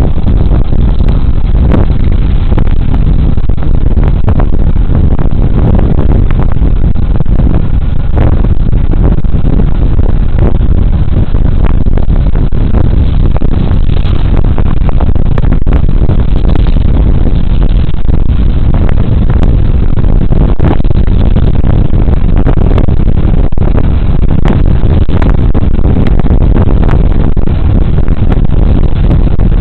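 Riding noise of a Suzuki Burgman Street 125 scooter under way: a steady, very loud rush of wind and road noise on a body-worn camera's microphone, with the scooter's engine running underneath.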